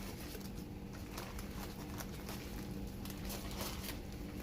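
Cookware being handled on the stove while a pot of rice is checked: scattered light clicks and taps over a steady low hum.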